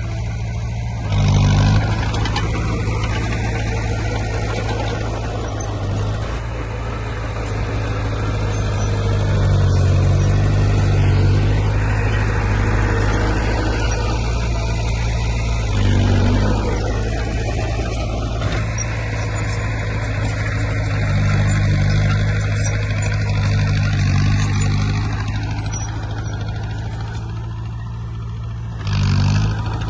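Diesel engines of a bulldozer and dump trucks working, a steady low drone throughout. Three short louder surges come through: about a second and a half in, midway, and near the end.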